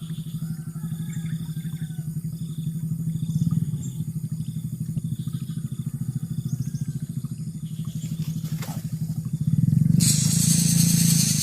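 A small engine running steadily with a low, fast-pulsing drone, with faint bird chirps over it. Near the end a loud hiss comes in on top.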